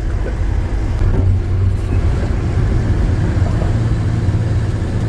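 Lorry's diesel engine running steadily on the move, a low drone with road noise.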